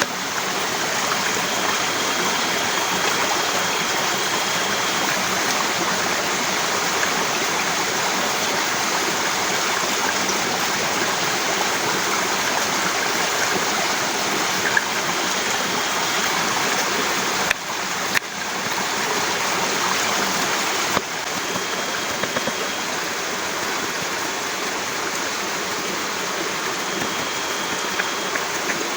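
Heavy rain falling steadily, a dense even hiss with no let-up, briefly dropping in level a couple of times about two-thirds through.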